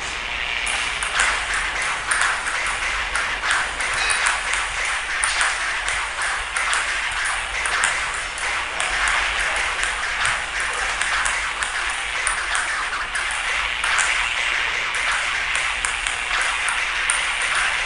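Table tennis ball being hit back and forth rapidly: quick, irregular sharp clicks of the ball on paddles and table, several a second, over a steady hiss.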